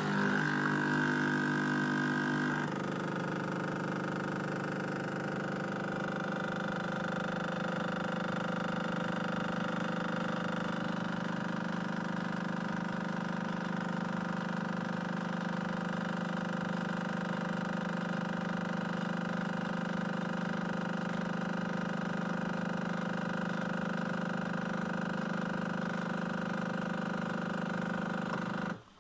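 Bosch Tassimo single-serve machine's pump running with a steady hum while the start button is held down to keep dispensing beyond the usual amount. Its tone changes slightly about three seconds in, and it cuts off suddenly near the end when the button is released.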